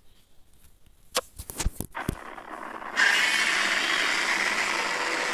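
Godzilla Earth's roar from the 2017 anime film, played back as a film sound effect. A few clicks come first, then about three seconds in a loud, sustained, rough roar starts suddenly and holds steady.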